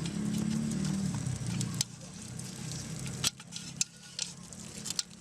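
Fire crackling, with several sharp pops and cracks over a light sizzling hiss. A low steady drone runs underneath for the first couple of seconds, then stops.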